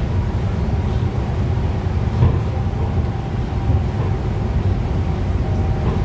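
Pink Line monorail train running along its guideway: a steady low rumble with a faint steady whine, and a single knock about two seconds in.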